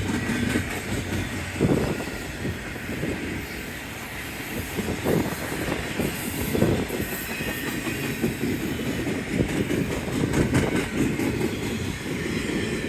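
Double-stack intermodal freight cars of a BNSF train rolling slowly past as the train slows: a steady low rumble of steel wheels on rail with irregular knocks and clacks.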